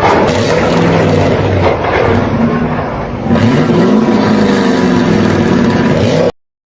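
Car engine running under load, its pitch rising and falling as it revs and accelerates, with an abrupt change to a different engine sound about three seconds in. The sound cuts off suddenly to silence near the end.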